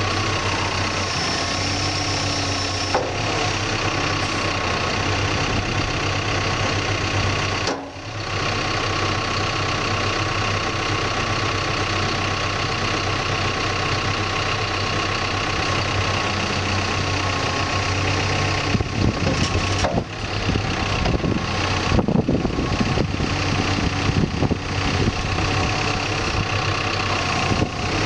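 A backhoe's diesel engine runs steadily at idle during its startup checks. In the last third, irregular clunks and knocks sound over the engine.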